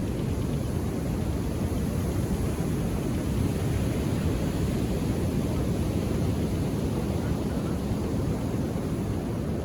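Ocean surf washing onto a beach: a steady, low rumble of calm waves with no single crash standing out.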